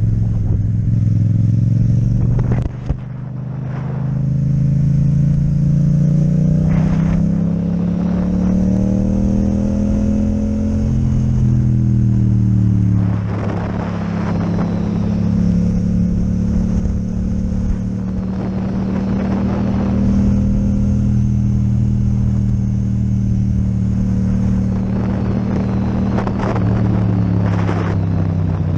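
Yamaha MT-07 parallel-twin with an Akrapovic exhaust, riding under way. The throttle closes briefly near three seconds, then engine pitch climbs steadily until about ten seconds and drops between eleven and thirteen. It holds fairly steady after that and eases off again near the end.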